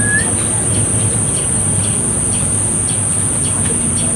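Lemon-bellied white-eye (kecial kuning) giving one short rising chirp at the start, then only faint quick high notes, over a steady high-pitched buzz and a low hum.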